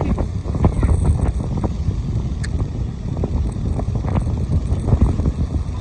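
Wind buffeting the microphone, a heavy, constant rumble by a rough sea.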